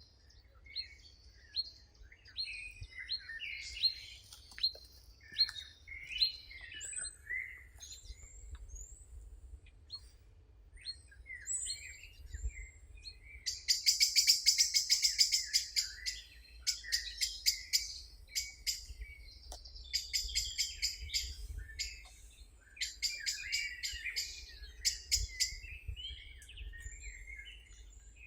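Several songbirds singing and chirping, short whistled notes and chirps overlapping. In the second half come loud, rapid trills, the loudest about halfway through, then several shorter ones.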